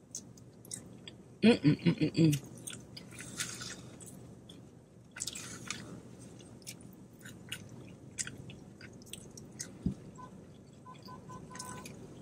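Close-up chewing of fried chicken, with soft wet mouth clicks and smacks throughout. A short loud voiced sound from the eater comes about a second and a half in.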